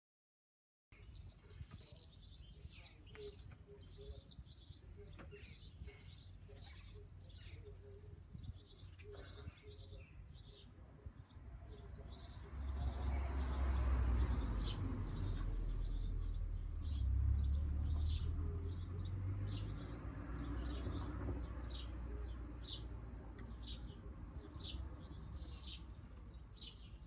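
Common swifts screaming in flight: many short, shrill, high screams, densest for the first several seconds and again near the end, with fainter screams between. A low rumble runs for several seconds in the middle.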